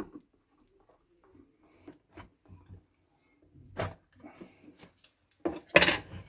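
Hands taking apart an electric kettle's plastic housing: scattered clicks and knocks, with a heavier clatter near the end.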